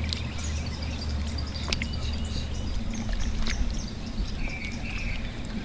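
Outdoor ambience: scattered birds chirping over a low rumble that eases off about halfway through.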